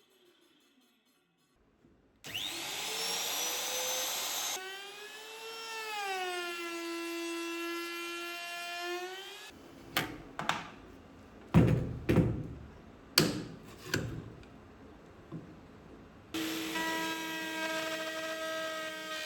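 Electric power tool motor spinning up with a rising whine and then running, its pitch dipping and settling. Next comes a series of sharp knocks on wood, then a motor running steadily again.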